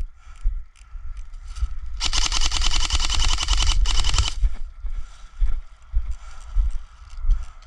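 Airsoft electric rifle firing one rapid full-auto burst of evenly spaced clicks, about two and a half seconds long, starting about two seconds in. A low rumble runs under it throughout.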